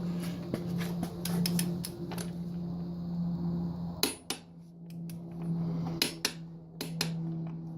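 Sharp metallic clicks and clanks of a torque wrench tightening a dirt bike's rear axle nut: a handful of separate clicks spaced out, with a pair about four seconds in and more near the end, over a steady low hum.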